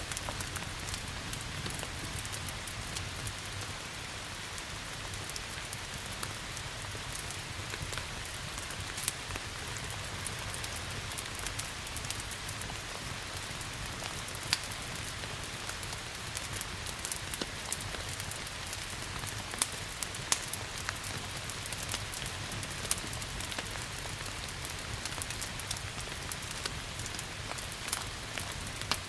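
Steady rain mixed with a crackling wood fire in a fireplace, with scattered sharp pops and snaps from the burning wood over the even hiss of the rain.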